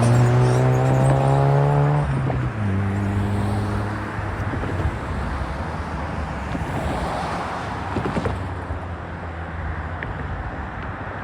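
A road vehicle's engine accelerating through its gears: the pitch climbs, drops suddenly about two seconds in as it shifts up, then holds lower and fades away under steady tyre and road noise.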